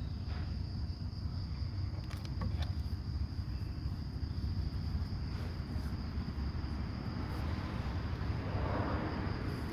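Steady high-pitched insect chirring over a continuous low rumble, with a few faint clicks.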